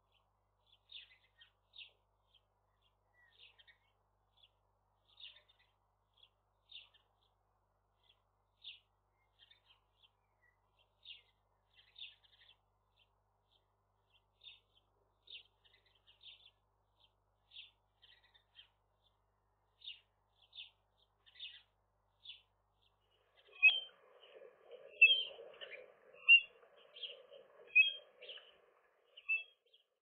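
Outdoor bird chirping: short, high chirps repeat about once a second, then a louder cluster of bird calls follows near the end.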